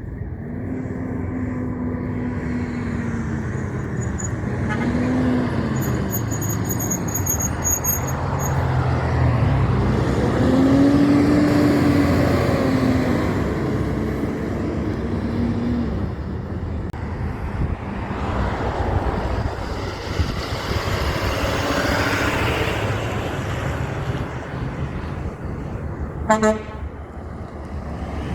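Heavy trucks passing on a road, with a truck horn sounding in several long blasts whose pitch bends up and down as the truck goes by. A brief sharp sound stands out near the end.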